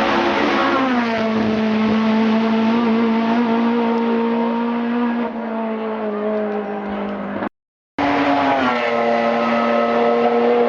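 Hill-climb race car engine at high revs going past: the pitch drops as it passes, then holds steady as it pulls away. A brief cut to silence about seven and a half seconds in, then another race car passes the same way.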